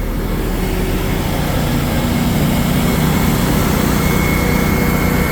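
Truck engine running steadily. A faint high whine joins about four seconds in.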